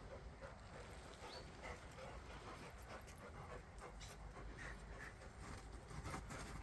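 A dog panting faintly in quick, even breaths.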